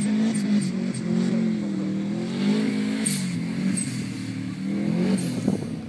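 A car engine revving hard and easing off again and again while the car power-slides on grass, its pitch rising and falling several times.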